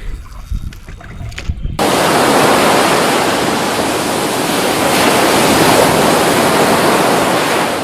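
Quiet open-air ambience, then an abrupt cut about two seconds in to a loud, even rushing noise like surf or a waterfall, which holds for about six seconds and fades out near the end.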